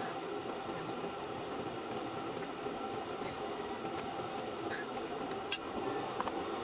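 Vegetables frying in an aluminium wok over a gas burner: a steady sizzle with the burner's flame running, and a couple of light clicks of a metal ladle against the pan near the end.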